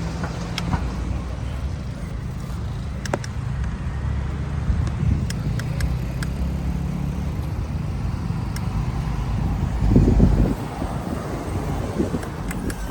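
Road traffic along a city street: a steady low rumble of car engines and tyres with scattered small clicks, and a louder low rumble about ten seconds in.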